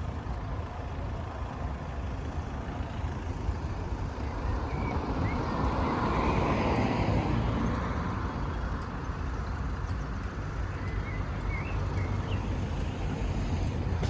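Road traffic passing over the level crossing: a vehicle's sound swells to a peak about six to seven seconds in and then fades, over a steady low rumble.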